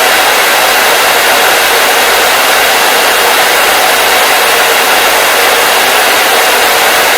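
Hair dryer running steadily: an even, unbroken rushing of air with a hissy, high-weighted tone and little bass.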